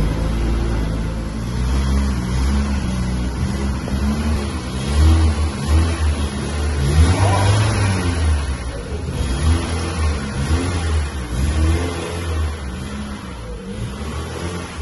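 BMW E36 3 Series engine running as the car pulls away at low speed, the revs rising and falling several times.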